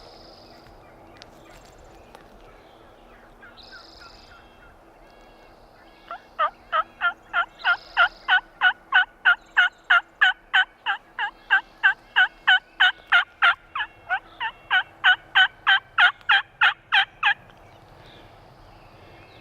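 Wild turkey hen yelping: a long run of about forty loud yelps, three to four a second. It starts about six seconds in and stops abruptly a couple of seconds before the end.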